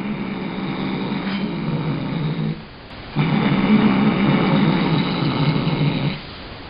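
Domestic cat growling low and continuously while guarding a piece of steak it has grabbed: two long growls, the second louder, with a short break between them.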